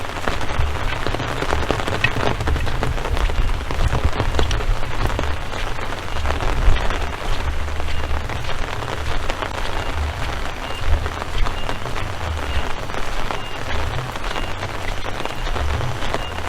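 Rain falling steadily, a dense patter of many small drops, over an uneven low rumble.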